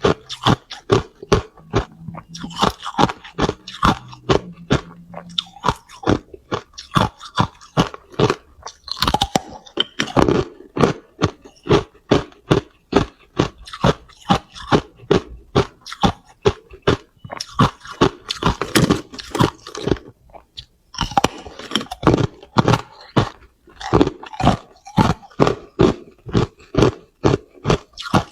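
Hard clear ice being bitten and chewed close to the microphone: rapid, loud crunching and cracking, several sharp crunches a second, with short pauses about a third of the way in and again about two thirds of the way through.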